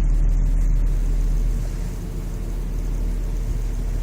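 Car running at low speed, a steady low rumble of engine and road noise that eases slightly about two seconds in.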